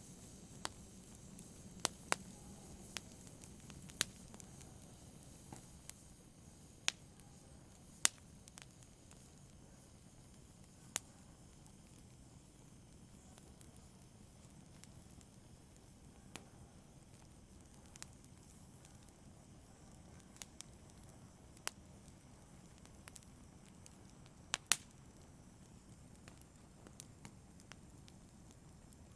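Wood fire crackling: scattered sharp pops and snaps, irregular and a second or a few apart, over a soft low hiss of burning.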